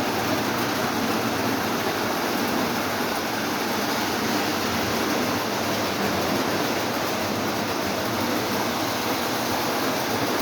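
Three Lionel O27 model trains running at once: a steady, even rumble of electric motors and wheels on the track.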